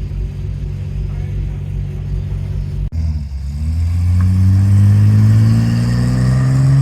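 Car engine idling with a steady low rumble, then, after an abrupt change about three seconds in, a car engine accelerating, its pitch climbing steadily for several seconds.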